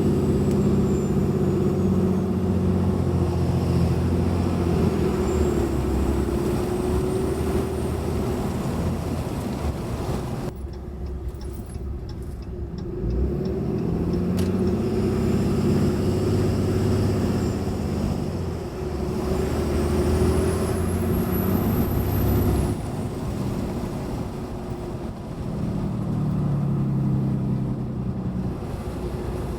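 6.7 L Cummins turbo-diesel with an S&B cold air intake, pulling under throttle, its turbocharger whistle rising and falling several times. The whistle is highest and loudest about two-thirds of the way through. About ten seconds in the engine eases off briefly before pulling again, heard from inside the cab with the windows down.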